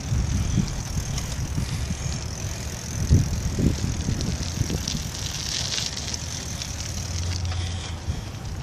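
Bicycle riding along a trail: a steady low rumble from the tyres and wind on the microphone, with a few knocks from the bike, the loudest about three seconds in.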